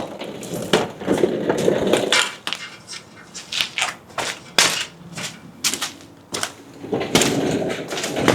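Irregular knocks and clanks of hand tools and metal exhaust parts being handled.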